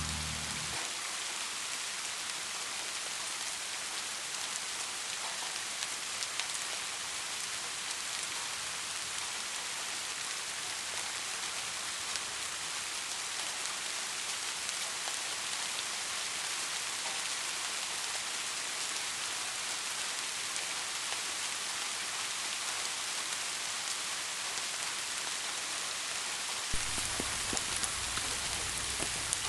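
Steady, even rain falling on a surface. A low rumble fades out in the first second and comes back in near the end.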